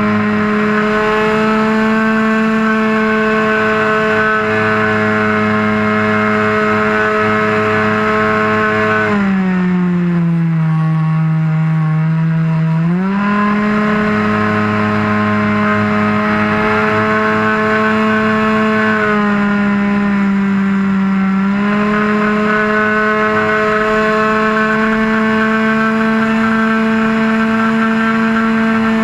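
RC airplane engine running steadily at high throttle, heard close up from the top of the wing. About nine seconds in it is throttled back and the pitch falls, rising back up about four seconds later; a second, shorter and shallower dip in pitch comes about twenty seconds in.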